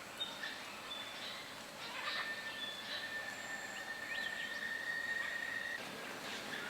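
Wild birds calling: a few short high whistled notes, a long steady tone held for about four seconds, and a couple of quick rising call notes.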